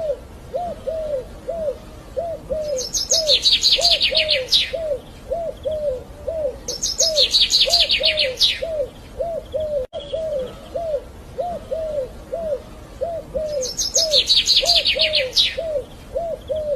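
Two birds calling. One repeats a low, hollow note about two or three times a second without pause. The other gives a high, rapid trill of about two seconds every four to six seconds.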